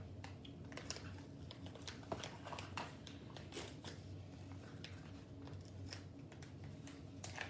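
Faint, scattered small clicks and crinkles of MRE ration packets being handled, over a steady low hum.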